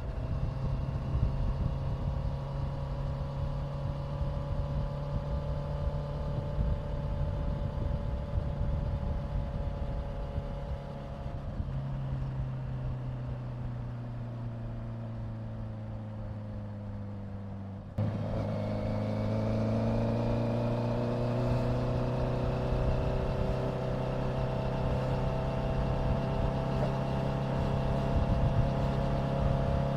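Honda CBR650F's inline-four engine running under way at a steady pace. From about twelve seconds in the throttle eases and the engine note sinks slowly. At about eighteen seconds the throttle opens again: the engine gets suddenly louder and then climbs slowly in pitch.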